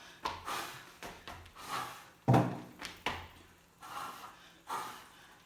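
A woman blowing short, repeated puffs of breath to push a small cup along a string, about eight blows, one every half second to a second.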